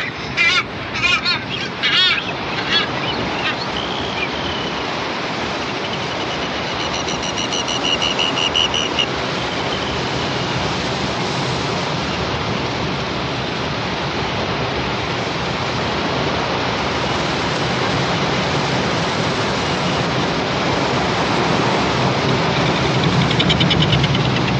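Surf washing steadily on a rocky shore, with shrill seabird calls repeating in the first few seconds, a drawn whistled note about seven seconds in, and a fast rattling call near the end.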